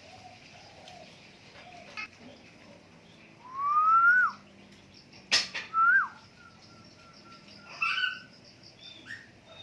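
Black-naped oriole (kepodang) giving clear, fluty whistles: a loud rising slurred whistle a few seconds in, then a short up-and-down note, a quick run of short notes and a couple of higher calls. A single sharp click sounds about halfway through.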